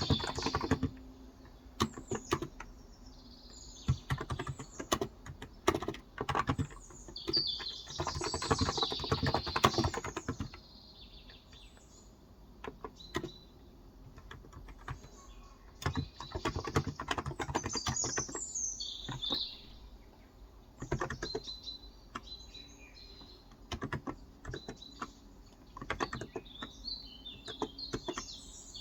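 Typing on a Cox Endeavor tenkeyless keyboard with 35 g electrostatic capacitive (non-contact) switches, in bursts of rapid keystrokes with short pauses between them. Birds chirp in the background throughout.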